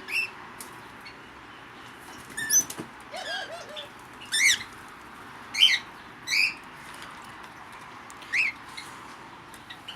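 Aviary birds calling in short, sharp chirps, about seven spread across the few seconds, with a lower call about three seconds in, over a steady background hiss.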